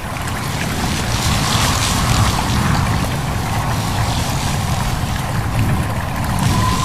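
Wind blowing with rustling leaves over a babbling stream: a steady rushing noise with a deep rumble underneath. A faint, thin steady tone comes in near the end.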